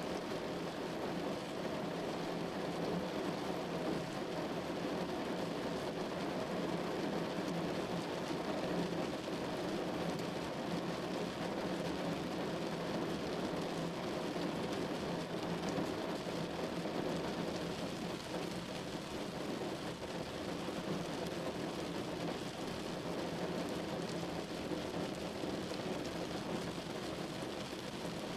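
Steady rain falling on a window pane, an even hiss with no single drops or claps standing out.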